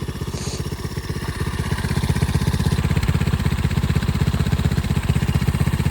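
Small single-cylinder pit bike engine running steadily, its firing pulses evenly spaced, getting somewhat louder about two seconds in.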